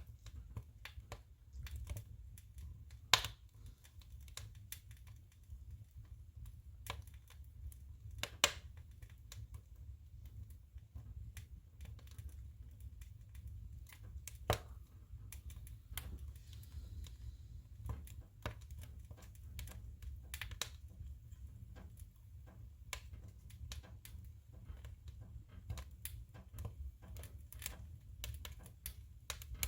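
Firewood burning in a wood stove: a steady run of irregular small crackles and ticks over a low rumble, with a few louder pops, the loudest about three seconds in, another about eight seconds in and one near the middle.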